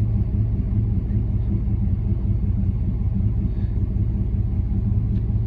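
A 2003 Ram 2500's 5.7-litre gas V8 idling: a steady low rumble that does not change.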